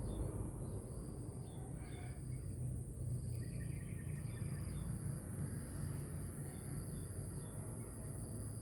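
Morning outdoor ambience: a steady high-pitched insect drone with short bird chirps repeating throughout, and a brief run of lower chirps about three to five seconds in, over a low rumble.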